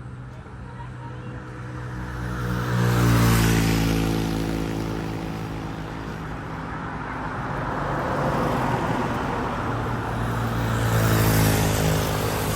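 Two road vehicles passing by in turn, one about three seconds in and another near the end, each an engine drone with tyre noise that swells and fades.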